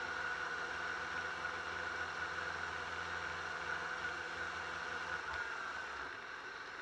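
Yamaha R6 inline-four engine running at low revs, heard through an onboard camera with a steady hiss over it; its low drone drops away about five seconds in.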